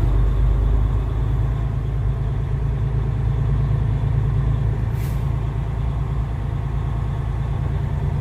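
Semi truck's diesel engine running with a steady low drone while driving, with one brief hiss of air about five seconds in.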